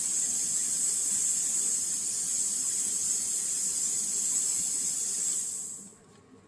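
Plasma cutting torch on a CNC plasma table hissing steadily as it cuts sheet metal, then shutting off about five and a half seconds in as the cut ends.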